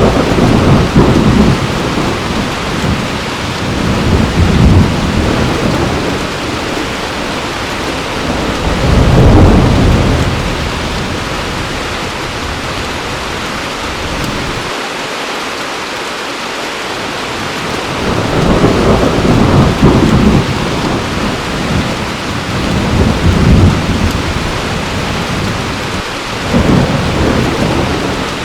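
Heavy rain falling steadily, with rolling thunder rumbling low again and again over it. The rumbles swell several times and die away for a few seconds in the middle.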